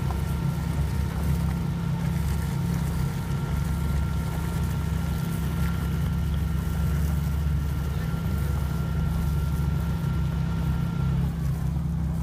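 A car engine idling close by: a steady low rumble at an even level, with a faint steady whine above it that stops near the end.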